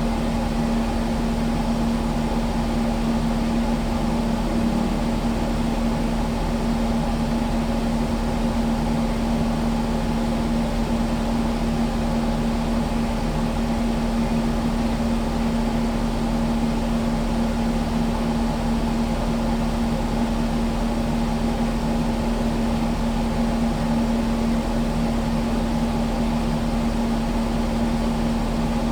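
Kubota skid steer's diesel engine running at a steady speed, a constant hum that neither revs up nor drops.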